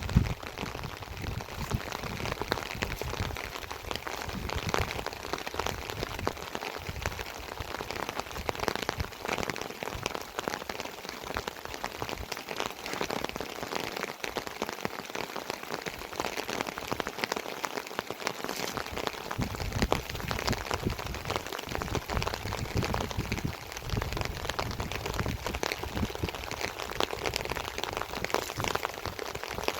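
Heavy rain falling steadily, a dense patter of drops striking nearby surfaces.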